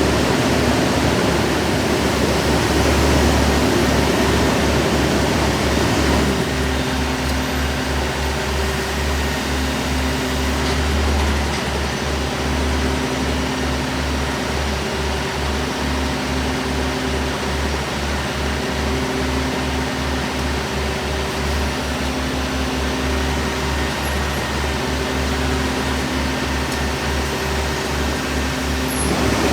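Waste Management roll-off garbage truck running, a loud steady rumble with rushing noise and a pulsing low throb. From about six seconds in, two low hum tones alternate at regular intervals.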